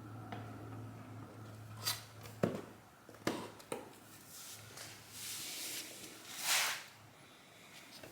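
Handling noises: a few sharp clicks and knocks in the first half, then a couple of rustling sounds, over a faint steady low hum.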